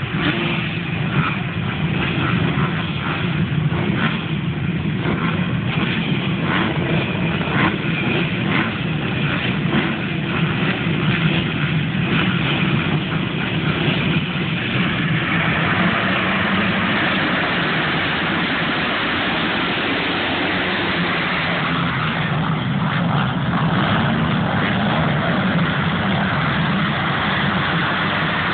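A field of motocross bikes revving their engines in irregular surges, changing about halfway through to a denser, steadier wash of engine noise.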